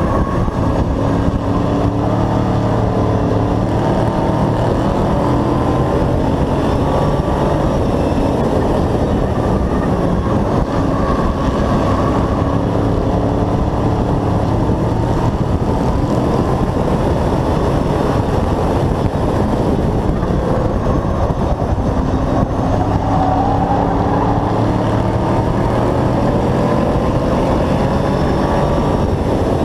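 Hobby-class race truck's engine running hard at race speed, its pitch rising and falling, over constant wind and road noise.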